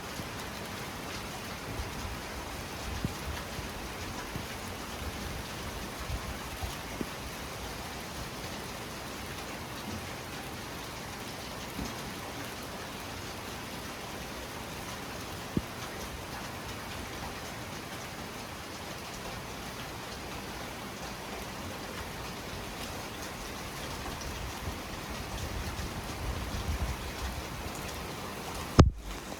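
Steady heavy rain falling during a night thunderstorm, with scattered louder drops striking close by. A low rumble of distant thunder swells near the end, and the sound cuts out for an instant just before the end.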